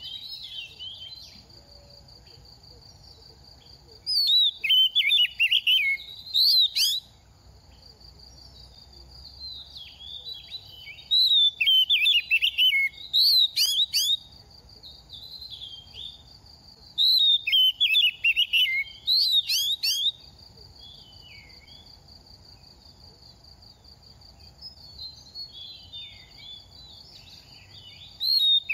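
A young male oriental magpie-robin singing in three loud bursts of rapid, varied whistled phrases, with softer phrases near the end. A steady high-pitched tone runs underneath in the pauses.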